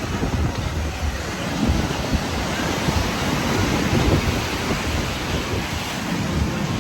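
Strong wind blowing across the microphone: a steady rush of noise with heavy, uneven low buffeting.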